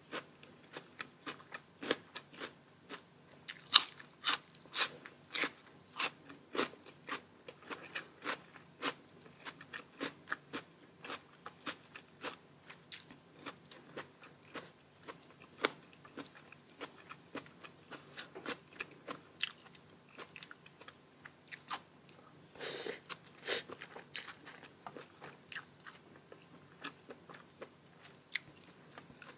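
A person biting and chewing crisp food close to the microphone, mukbang-style: a steady run of sharp, irregular crunches, several a second, with a denser spell of longer crunches a little over two-thirds of the way through.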